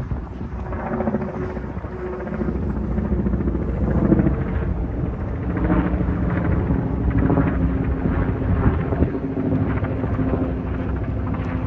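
A steady low rumble like a passing engine or rotor, with no speech.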